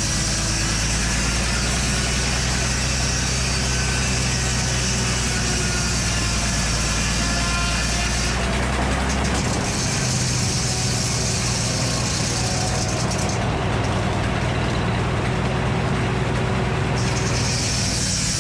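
A large engine running steadily at an even speed; the high hiss over it changes abruptly about eight seconds in and again about thirteen and seventeen seconds in.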